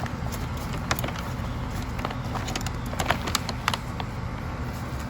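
A few sharp clicks and knocks from handling the pumpkins and bag at the scale, most of them about three seconds in, over a steady low outdoor rumble.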